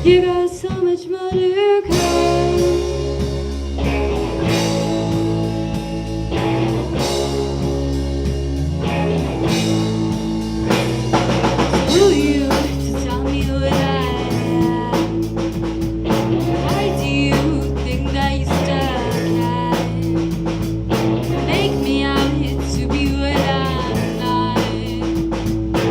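Live rock band playing with drum kit, electric guitar and bass, and a female lead vocal singing over it. After a brief sparser moment the full band comes back in about two seconds in.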